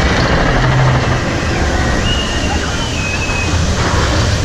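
Expedition Everest roller coaster train running on its steel track, heard from the front seat: a steady loud rumble with rushing noise. Faint high squeals ride over it.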